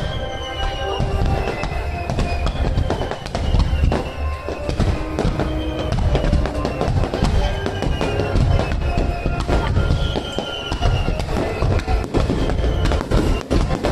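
Fireworks display at its climax: a dense, continuous barrage of bangs and crackles, with music playing along.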